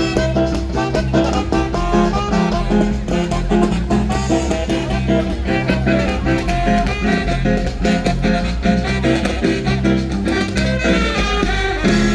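Brass band playing a lively Latin dance tune with a steady beat, going over to a long held chord near the end.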